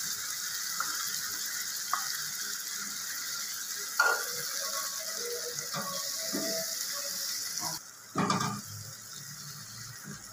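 Steady sizzling hiss of chicken frying in oil in a pan, with a few sharp metal clicks. The sizzle cuts off near the end, and a louder clatter follows.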